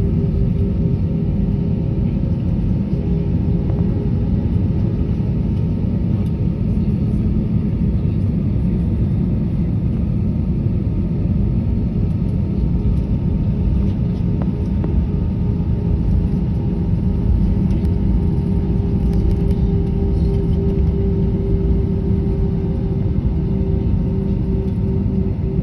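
Airliner jet engines and airflow heard from inside the cabin: a loud, steady low rumble with a constant hum over it.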